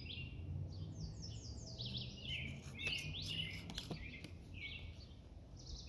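Several small birds chirping in quick, short notes that overlap throughout, over a faint low steady rumble.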